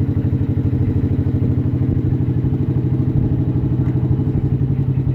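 Italika DM-series single-cylinder motorcycle idling steadily through an aftermarket performance exhaust, a deep, even rapid pulsing.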